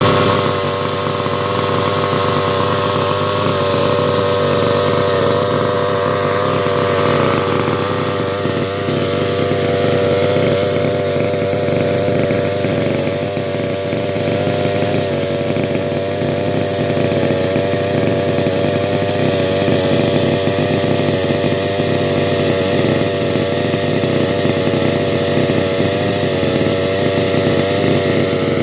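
Rovan RC 1/5-scale car's 30.5cc two-stroke engine with dual exhaust, running steadily at an even, slightly wavering pitch.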